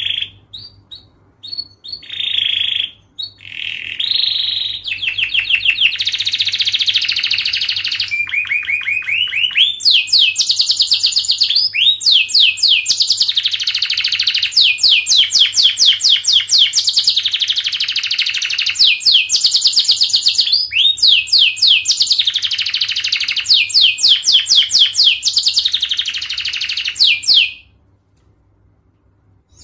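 Domestic canary singing: a few short high phrases, then a long run of fast, tightly packed trills that rolls on almost without a break for over twenty seconds and stops shortly before the end.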